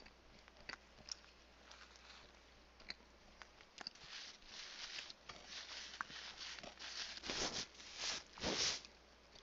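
A person chewing a bite of a chicken sandwich with small mouth clicks, while its paper wrapper crinkles in rustling bursts from about halfway through, the loudest two near the end.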